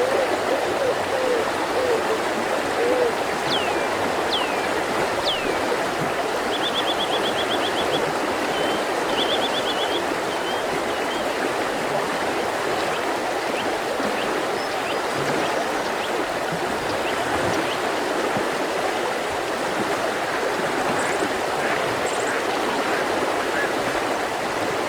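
Mountain river flowing steadily, with birds calling over it: a few quick sweeping whistles, then two short rapid trills and scattered chirps. A run of low repeated calls sounds in the first few seconds.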